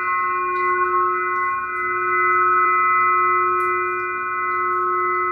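Glass singing pyramid ringing on after being struck: a steady low tone with several higher overtones that sustain without fading.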